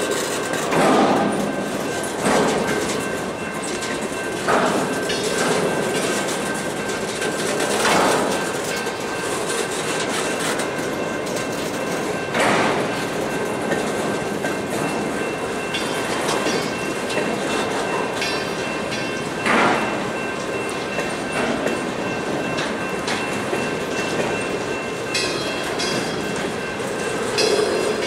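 Freight train cars, empty centerbeam flatcars and boxcars, rolling past with a steady rumble of steel wheels on rail. A louder clack comes every few seconds as wheels cross rail joints. A thin, steady high-pitched tone runs underneath, with brief wheel squeals in the second half.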